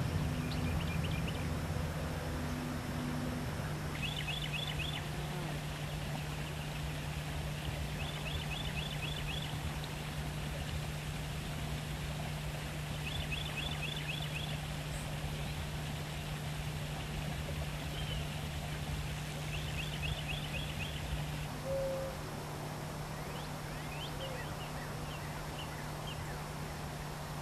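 A small bird singing a short, rapid trill of high notes, repeated four times a few seconds apart, with a few scattered notes near the end, over a steady low hum.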